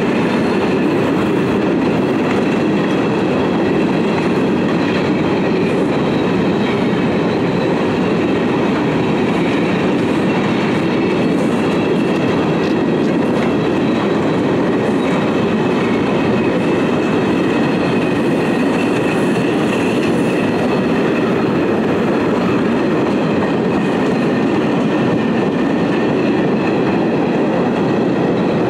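Railway wagons rolling along the track: a loud, steady rumble of wheels on rails that keeps up unchanged.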